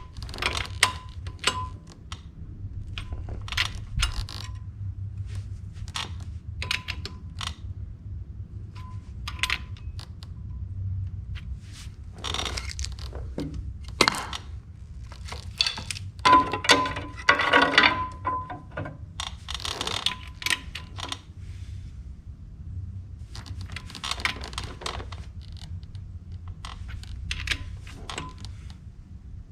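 Metal clinks and clicks of a wrench working the steel nuts on the clutch-housing bolts, tightened to torque. Some strikes leave a short ringing tone. The clinks come in scattered clusters and are busiest a little past halfway, over a steady low hum.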